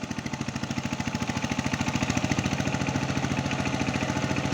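Single-cylinder diesel engine of a 12-horsepower power tiller running with a rapid, even chug, growing louder over the first couple of seconds and then holding steady.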